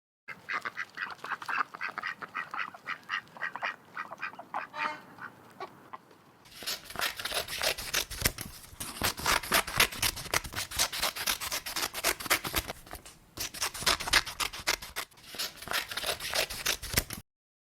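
Ducks quacking in quick, repeated calls. After a short pause about six seconds in, a louder, denser chorus of quacking follows.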